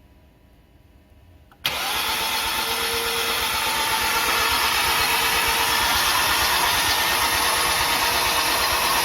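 Starter cranking a freshly rebuilt Hyundai G4KD 2.0-litre four-cylinder with its spark plugs out and crank sensor unplugged, so it spins without firing, priming the new oil. The cranking starts suddenly about one and a half seconds in and runs steadily.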